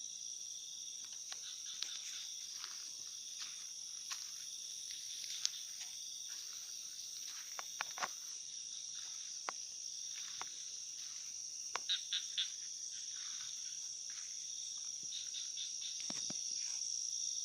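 Night chorus of crickets and other insects: a steady high-pitched trilling, with scattered short clicks and chirps, three in quick succession about twelve seconds in.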